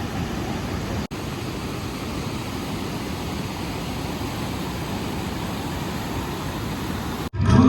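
Steady rushing noise, heaviest in the low range, that drops out briefly about a second in and again near the end.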